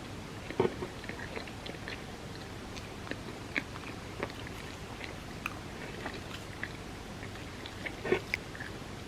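Close-up eating sounds of soft, creamy crepe cake: chewing with many small wet mouth clicks over a steady low hiss, and two louder sharp sounds, one about half a second in and one near the end.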